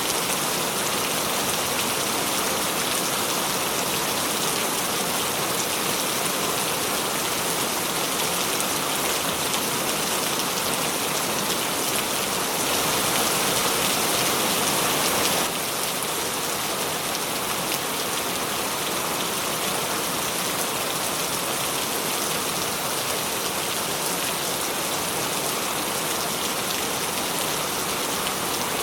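Steady rain falling, a dense even hiss of drops. It grows a little louder for a few seconds past the middle, then drops back abruptly.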